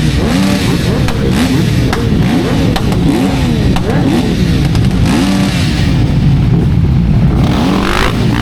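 Ducati Streetfighter V4 S engine running on the road, its pitch rising and falling again and again as the throttle is opened and closed, with heavy wind noise.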